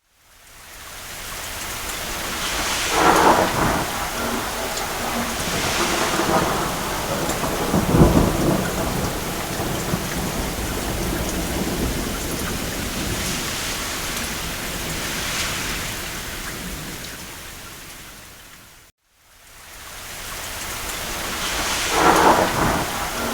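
Steady rain on a cabin roof with several rolls of distant thunder; the deepest, loudest one comes about eight seconds in. About three-quarters of the way through, the sound fades briefly to silence and comes back.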